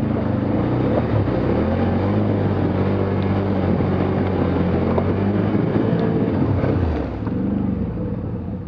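Vehicle engine pulling hard off-road, its pitch rising about a second and a half in, holding, and dropping back near seven seconds as the load eases.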